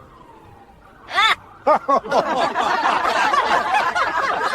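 Several people laughing together, dense and overlapping, from about two seconds in, after two short loud vocal calls. Before that, a faint falling siren-like tone.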